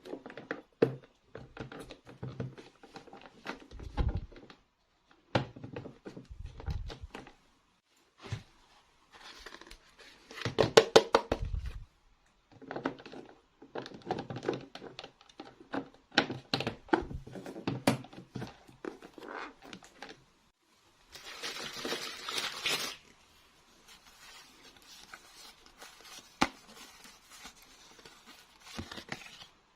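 Hands unboxing a toy set: packaging rustling and crinkling, with scattered light clicks and knocks of small plastic pieces. There is a longer tearing sound about 21 seconds in.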